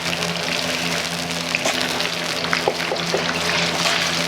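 Commercial kitchen sounds: water running or pouring over the steady hum of kitchen machinery, with a few light clicks and knocks.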